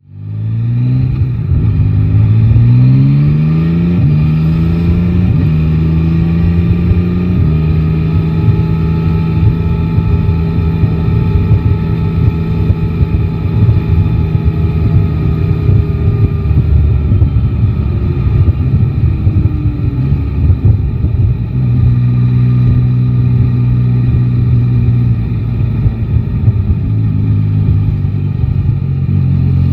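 Yamaha Tracer 9 GT's 890 cc inline three-cylinder engine pulling away through the gears, its pitch climbing and dropping back at each of several upshifts. It then cruises steadily, slows down from about halfway, and runs low and steady near the end, with wind rumbling on the microphone.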